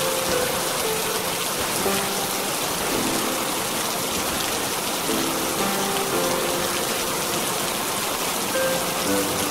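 Steady rain falling, with soft, slow music of long held notes underneath.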